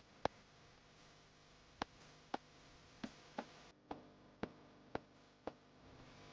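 A series of sharp, short clicks, about nine, unevenly spaced and coming roughly every half second in the second half, over a faint quiet background.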